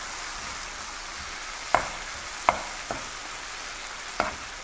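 Onion and tomato sizzling in a frying pan as they are stirred with a metal spoon, over a steady frying hiss. In the second half the spoon knocks sharply against the pan four times.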